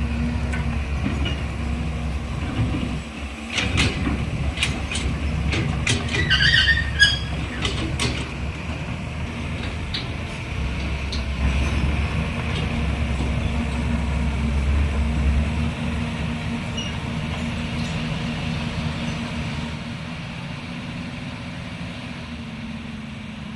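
Caterpillar E180 excavator's diesel engine running under load, with sharp metal clanks and a brief squeal from the working gear in the first third. The heavy low rumble eases about two-thirds of the way through, and the engine settles to a steadier, quieter running.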